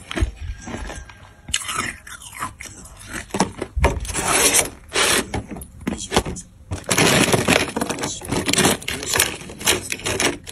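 Hard clear ice being bitten and chewed: an irregular run of loud crunches and cracks, which gets denser about halfway through.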